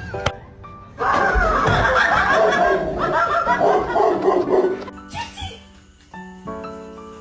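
Piano notes struck unevenly by a dog pressing the keys, a few at the start and a cluster near the end. In between, for about four seconds, a loud wavering vocal sound covers the piano.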